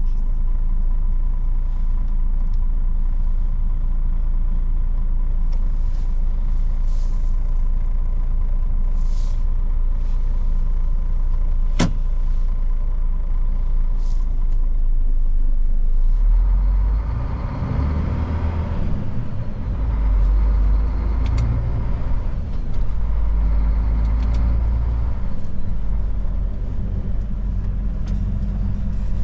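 Old Mercedes truck engine running as the truck drives through town, a steady low rumble. There is a sharp click about twelve seconds in, and the rumble grows heavier for stretches later on.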